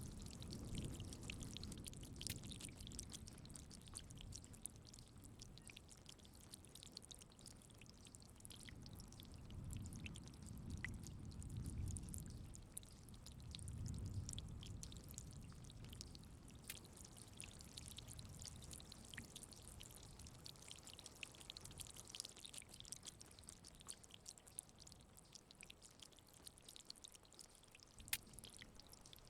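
Faint steady rain, with many small drop impacts, and low rolls of distant thunder swelling at the start and twice more in the first half.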